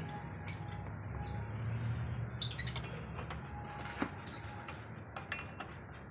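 Scattered light metallic clicks and clinks of hand tools, the loudest about four seconds in, over a low steady hum.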